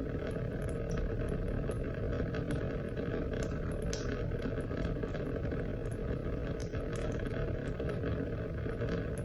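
Steady rain: a constant rush of falling water with many small, sharp drop ticks scattered through it.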